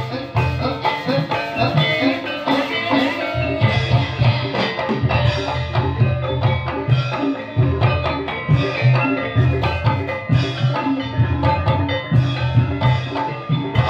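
Live ebeg dance accompaniment in the dangdut kreasi style: drums and tuned struck percussion playing a busy, steady rhythm over a heavy, repeated bass pulse.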